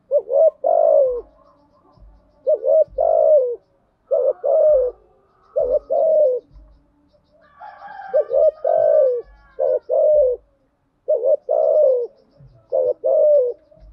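Spotted dove cooing over and over: a phrase of quick short notes ending in a longer, falling coo, about eight times, used as a decoy call to draw doves in. A few faint higher chirps sound in the middle.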